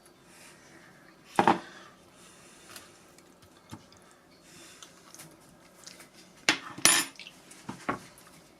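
Cutlery and dishes knocking and clinking on a kitchen counter: a sharp knock about a second and a half in, then a cluster of clinks near the end, one of them ringing briefly.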